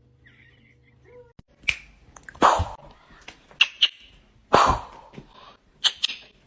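A dog making short, sharp sounds, five or six of them about a second apart.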